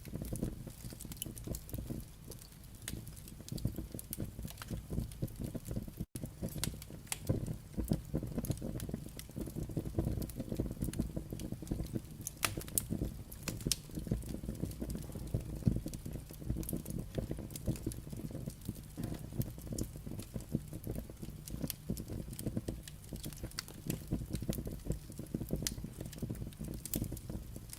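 Firewood burning: a steady crackle of irregular sharp pops and snaps over a low, continuous rumble of the fire. The sound drops out for an instant about six seconds in.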